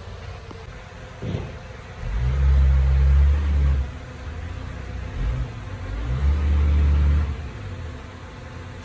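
Heavy diesel engine of earthmoving machinery running, then revving up hard twice, once about two seconds in and again about six seconds in, each surge lasting one to two seconds.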